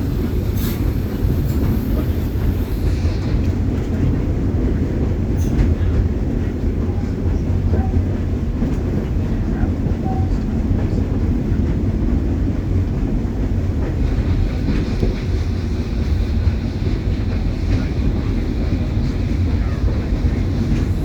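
Disney park steam railroad train heard from aboard a passenger car as it rolls along the track: a steady low rumble of wheels on rails, with a couple of sharp clicks.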